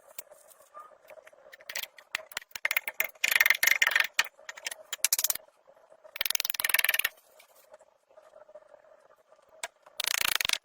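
Three bursts of scraping, each made of rapid strokes, the longest about three seconds, over a faint steady hum.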